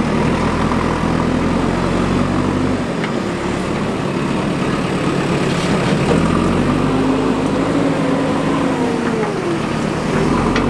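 Diesel engine of a JCB 3DX backhoe loader running steadily, dropping in pitch about three seconds in, then revving up and back down over a few seconds before settling to a steady note near the end.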